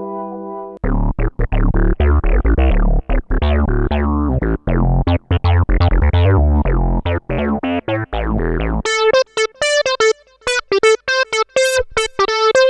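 Sequential Prophet-5 Rev4 analog synthesizer playing: a held chord ends under a second in, then a fast deep bass line of short plucked notes, each starting bright and quickly dulling. About nine seconds in it switches to a higher, crisp staccato plucked pattern.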